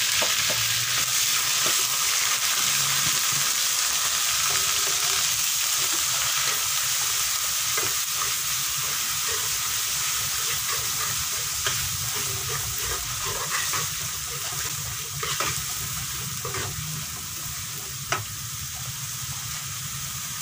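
Ground spice paste sizzling in hot oil in a wok as it is sautéed, with a metal spatula scraping and tapping against the pan. The sizzle is loudest as the paste first goes into the oil and eases off gradually.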